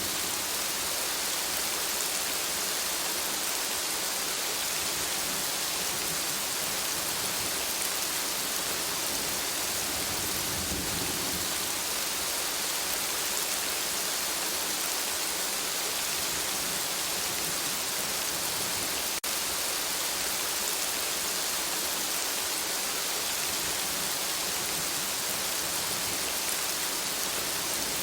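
Steady rain falling and pattering on surfaces, with a low rumble of distant thunder about ten seconds in. There is a momentary dropout about two-thirds of the way through.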